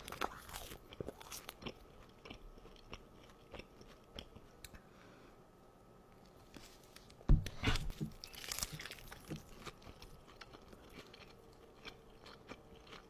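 Close-miked eating: crunchy bites and chewing, with scattered small crunches and a loud bite and crunching about seven seconds in.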